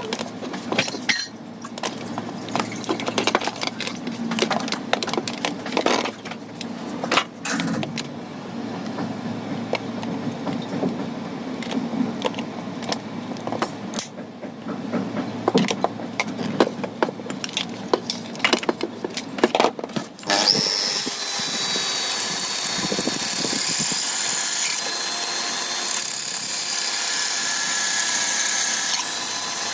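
Hand tools clicking, knocking and scraping on the hard plastic parts of a toy robot under repair. About twenty seconds in this gives way abruptly to a steady high whirring that carries on.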